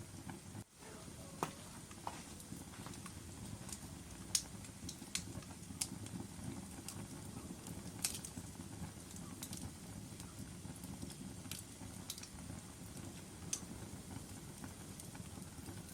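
Wood logs burning in a fireplace: a steady low rumble of the fire with scattered sharp crackles and pops, about a dozen, the loudest a few seconds apart. The sound drops out briefly just under a second in.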